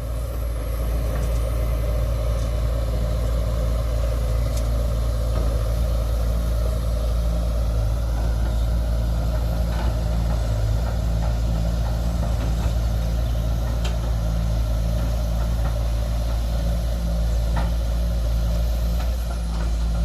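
Large diesel engine running steadily at idle, a deep, even rumble with a few faint clicks over it.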